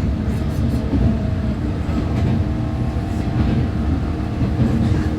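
Electric commuter train running, heard from inside the carriage: a steady low rumble of wheels on the rails with a faint steady motor hum.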